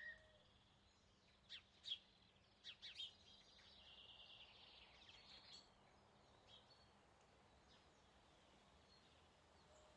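Near silence, with a few faint, scattered bird chirps, most of them in the first half.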